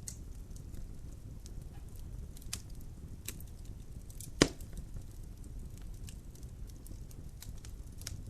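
Logs burning in a fireplace: a steady low rumble of the flames with scattered sharp crackles, and one loud pop about four and a half seconds in.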